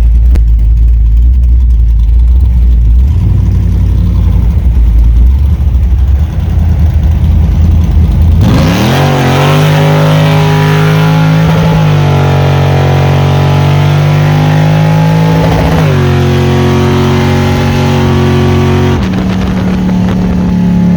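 V8 pickup truck engine rumbling, then launched at full throttle about 8 seconds in; the engine note climbs and drops back at gear changes around 12, 16 and 19 seconds in, a drag run through the gears.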